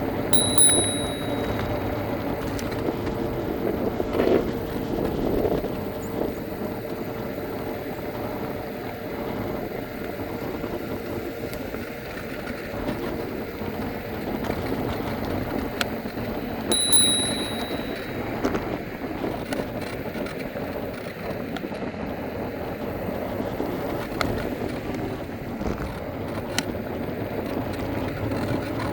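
Electric scooter riding along with a steady motor hum and rolling tyre and wind noise. A bell dings briefly right at the start and again about seventeen seconds in.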